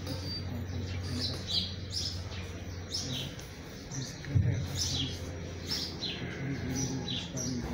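Small birds chirping repeatedly: short, high chirps that fall in pitch, about one or two a second, over a steady low hum. A single low thump about halfway through is the loudest moment.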